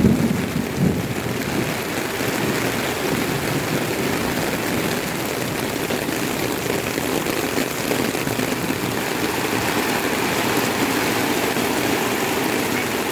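Steady rain falling, an even hiss of rain on the ground.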